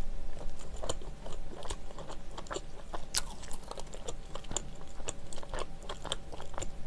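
A person chewing a mouthful of soft, chewy cheese-filled bread close to the microphone, mouth closed: a run of irregular small mouth clicks.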